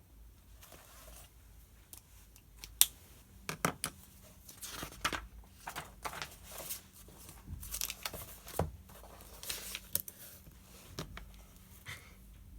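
Paper rustling as book pages are turned and sheets handled, in irregular swells, with sharp clicks and taps, the loudest a click about three seconds in.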